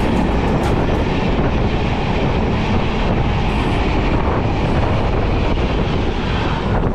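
Passenger train running at speed, heard from on board: a steady roar of wheels on rails with a few sharp clicks in the first second.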